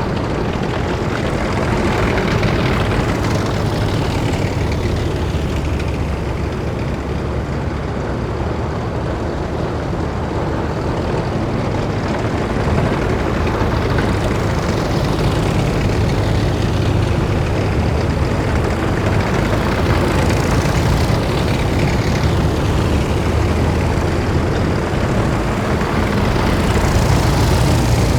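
A column of heavy military vehicles driving past, with a steady deep engine noise throughout. Several times a higher whine sweeps down in pitch as a vehicle goes by.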